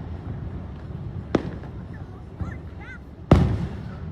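Fireworks shells bursting: a sharp bang just over a second in, then a louder boom about three seconds in that trails off in a rumbling echo, over a steady low background rumble.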